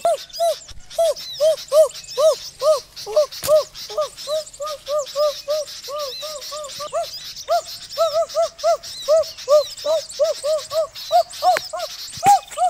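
A bird calling a long unbroken series of short notes, each rising and falling, about three or four a second, edging slightly higher in pitch near the end. Faint high chirping and brief rustles sit underneath.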